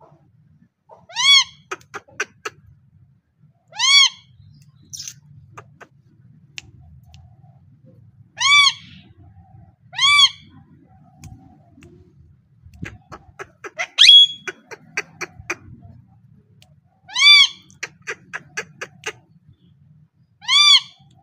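Parrot giving short calls that rise and fall in pitch, six times, with runs of quick clicks between some of them.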